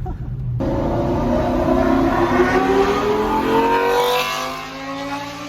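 Lamborghini Gallardo Superleggera's 5.0-litre V10 with aftermarket exhaust accelerating hard, heard from outside the car. It starts suddenly about half a second in, the pitch climbs for about two seconds, then the sound fades near the end.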